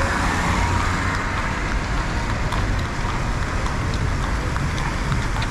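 Steady city street noise of road traffic, with a low rumble and scattered faint ticks.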